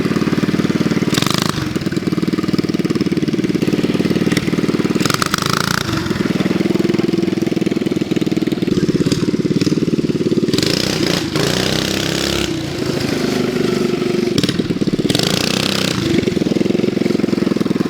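Predator 212 single-cylinder four-stroke mini bike engine running hard at high revs, its pitch rising and falling a little as the rider works the throttle. Several short rushes of noise cut across it.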